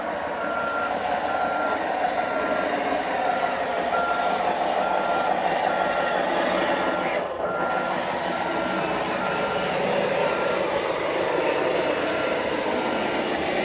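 Reversing beeper on an RC bulldozer, a high steady beep repeating about once a second, over the machine's steady running sound as it backs up.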